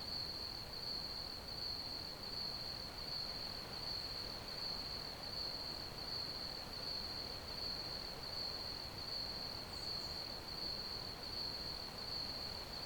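Crickets chirping in a steady, unbroken chorus: one high, even trill over a soft background hiss.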